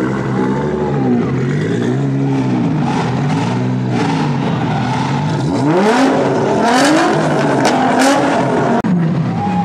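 Sports car engine revved in repeated blips, its pitch rising and falling about once a second, then pulling away hard with a steep rising pitch about six seconds in. Several sharp exhaust pops come between about six and eight seconds in.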